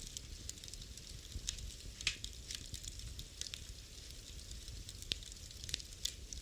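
Wood fire crackling in a fireplace: irregular sharp cracks, the loudest about two seconds in and again about five seconds in, over a low steady rumble of the flames.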